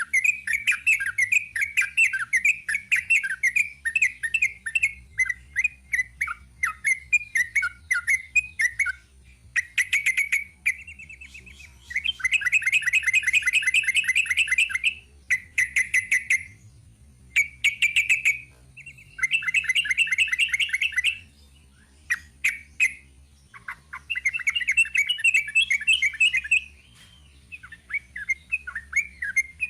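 Yellow-vented bulbul (trucuk) singing a long, rapid chattering song: fast runs of short notes in bursts of a few seconds, broken by brief pauses, with the quickest trills around the middle.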